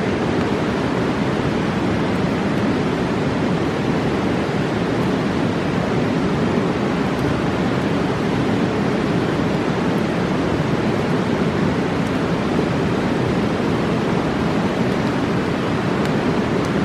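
Fast mountain river rushing, a steady, even roar of water with a few faint ticks over it.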